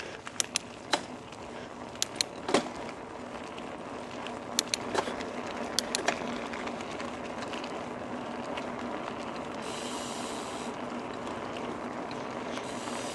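Trek Roscoe 8 mountain bike being ridden: a steady rolling hiss from the tyres and moving air, with scattered sharp clicks and rattles from the bike in the first few seconds.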